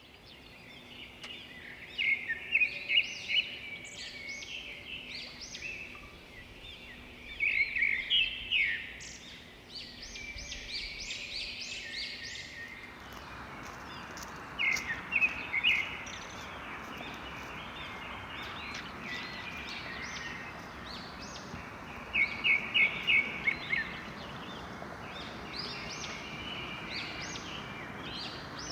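Songbirds singing in bursts of quick, high, repeated chirps, several times over. About halfway through, a steady background hiss comes in beneath the birdsong.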